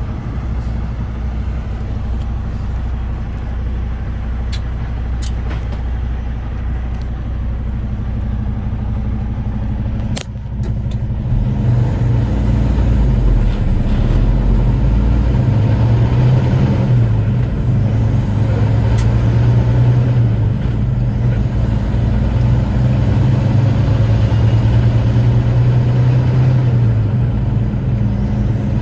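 Semi truck's diesel engine and road noise heard inside the cab while driving. About ten seconds in, the engine note grows louder into a steady drone, with a few light clicks along the way.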